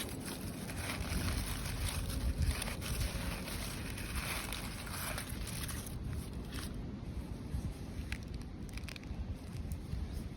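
Wind buffeting the microphone outdoors: a steady rushing with an uneven low rumble.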